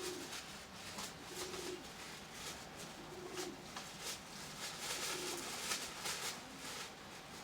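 Nikolaev pigeons cooing, a low coo repeating about every second and a half, over a steady rain hiss with scattered sharp taps.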